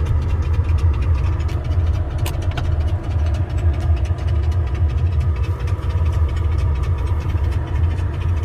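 Steady low rumble of a car's engine idling, heard from inside the car.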